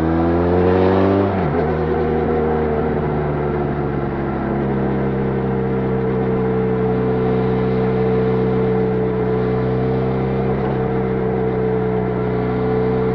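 Benelli Leoncino 500's parallel-twin engine through its stock exhaust, revving up for about a second and a half, then dropping sharply in pitch and holding steady revs for the rest.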